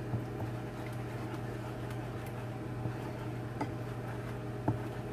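Steady low hum of a microwave oven running while it cooks, with a few faint light clicks over it.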